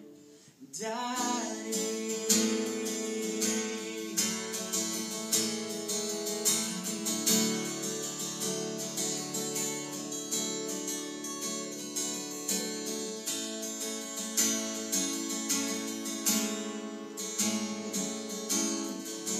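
Acoustic guitar strumming chords in an instrumental break, with one sung word about two seconds in.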